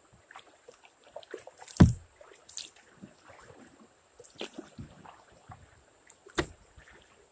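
Kayak moving through shallow river water, with scattered small splashes and clicks and two hollow knocks against the hull: a loud one about two seconds in and another about six seconds in.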